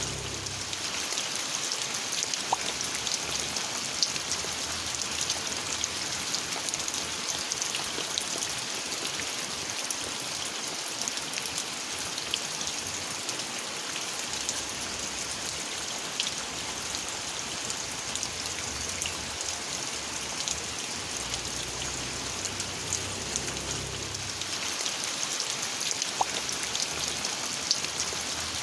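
Steady rain falling, with many separate drops ticking sharply through the constant hiss.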